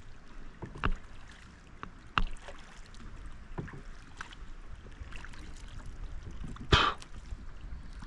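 Kayak on the water with a low rumble and a few scattered knocks, the loudest about seven seconds in.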